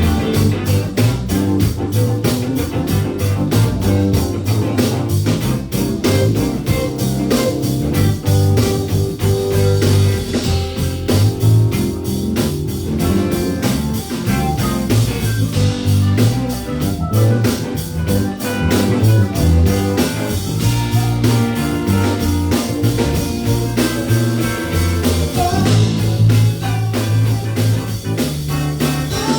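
Band playing a blues-rock cover: a drum kit keeps a steady beat under bass and electric guitar.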